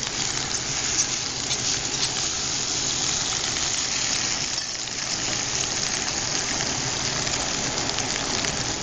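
Sliced potatoes sizzling steadily in hot oil in a cast iron skillet, with a fine, even crackle.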